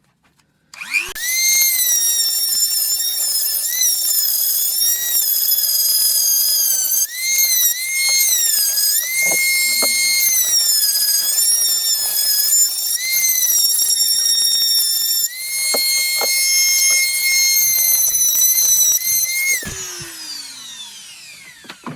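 Rotary tool with a die grinding bit grinding metal out of a cast exhaust manifold's ports. It winds up to a high whine about a second in, its pitch dipping repeatedly as the bit bites into the metal, runs steady for a few seconds, then is switched off about two seconds before the end and spins down with a falling whine.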